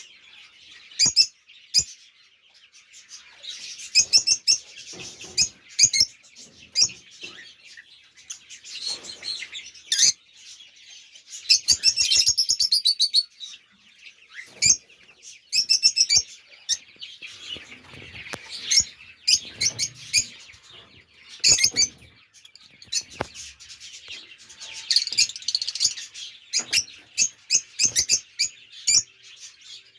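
Baby African lovebirds chirping and cheeping in quick, high-pitched bursts, with a constant softer chatter between them.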